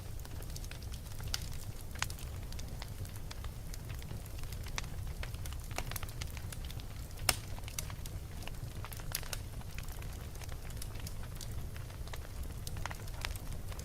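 Wood fire burning in a fireplace, crackling with irregular small pops and one sharper, louder pop about seven seconds in, over a steady low rumble.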